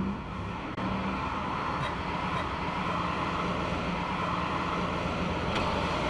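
Vehicle engine idling steadily in stopped traffic, a low steady hum with road-side rumble; a brief thump right at the start.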